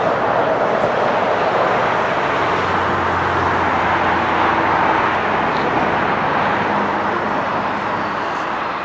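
Jet aircraft noise at an airport: a steady, even rush with a faint low hum, easing slightly near the end.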